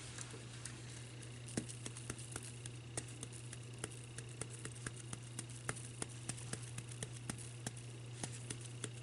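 Faint, irregular light ticks and taps from glitter being shaken out of its container onto the ornament, over a steady low hum.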